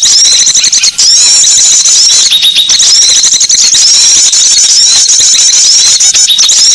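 Dense twittering of many small songbirds, rapid high chirps and short sweeping notes overlapping without a break: a small-bird lure (pikat) call recording.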